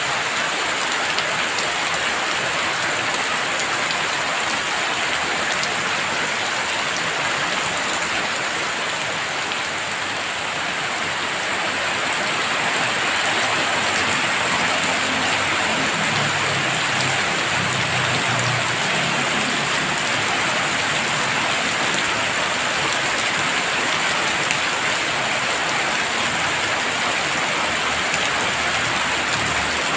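Heavy rain falling steadily and densely. A low rumble rises under it roughly halfway through.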